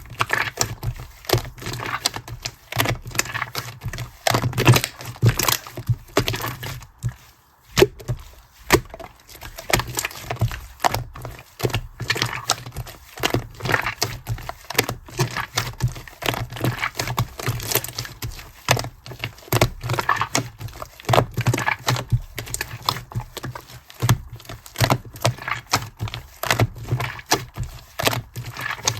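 Slime being kneaded and stretched by hand with shaving foam mixed in, giving a continuous, irregular run of crackling, popping clicks.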